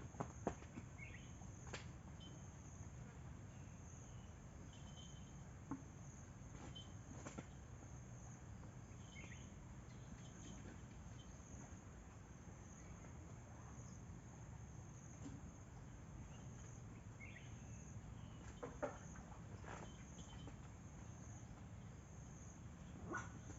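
Insects, crickets or similar, making a steady high drone, faint. A few short chirps and several sharp clicks are scattered through it, including a pair of clicks near the end.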